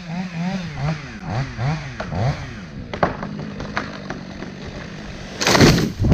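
Two-stroke chainsaw revved up and down over and over, its pitch rising and falling about twice a second, then running more steadily with scattered clicks. A loud rushing burst comes near the end.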